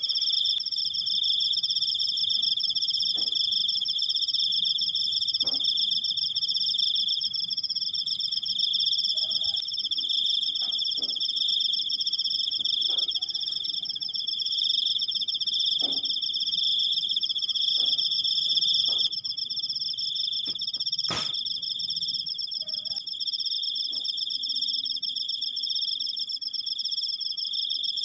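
Crickets trilling: a long, unbroken, high chirring trill at two pitches, with one sharp click about 21 seconds in.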